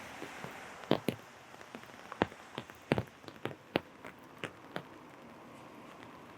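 Raindrops tapping irregularly on an umbrella canopy overhead, sharp separate taps over a steady hiss of rain. The taps thin out after about five seconds.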